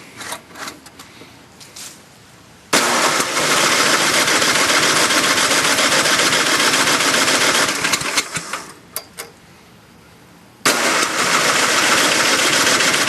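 A John Deere 1026 snowblower's 10-horsepower engine being cranked by its electric starter in two long attempts: one lasting about five and a half seconds, then a second starting about ten and a half seconds in. The engine does not catch.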